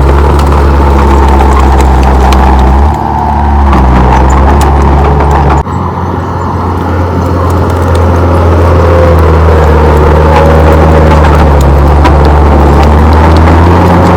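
Komatsu D31P crawler bulldozer's diesel engine running steadily under load. The engine note drops suddenly about three seconds in and again near six seconds, then settles back to a steady run.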